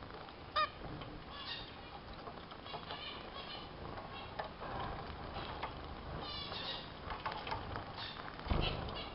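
Pet finches calling: zebra finches give short nasal honking calls and other small finches chirp and twitter throughout, with one loud call about half a second in and a quick run of notes about six seconds in. A low thump comes near the end.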